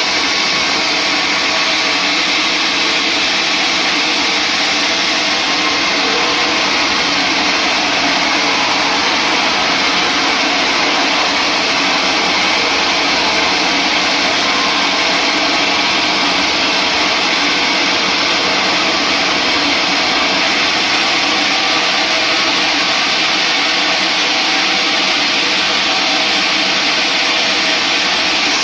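Sawmill saw running with a loud, steady, unchanging noise.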